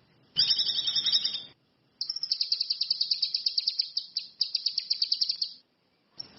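Cucak kinoi (ranti mas) songbird singing: a short high two-toned call about half a second in, then a fast high trill of about ten notes a second lasting over three seconds, broken briefly midway.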